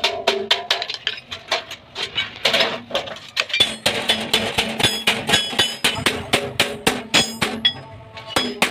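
Rapid hammer blows on sheet metal, several a second, each with a short metallic ring.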